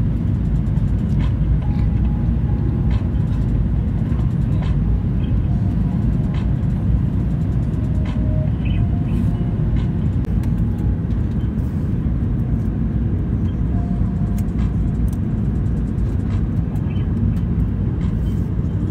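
Steady low rumble of an airliner cabin in flight: engine and airflow noise, with a few faint clicks and rattles over it.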